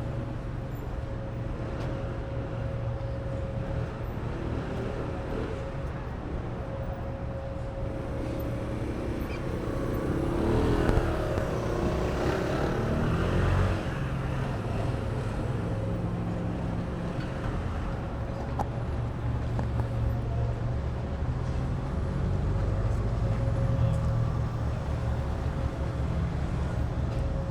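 Street traffic: car engines running with a steady low rumble, and a vehicle passing louder about ten to fourteen seconds in.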